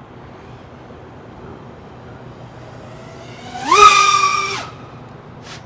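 Five-inch FPV quadcopter's motors (EMAX ECO II 2306 1700kv) whining loudly as the quad punches throttle close by, the pitch rising and then holding for about a second before cutting off. A brief sharp click follows near the end.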